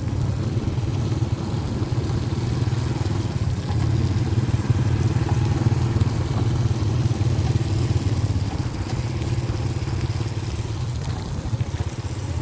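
A vehicle engine running steadily while on the move: a constant low drone with road and wind noise over it.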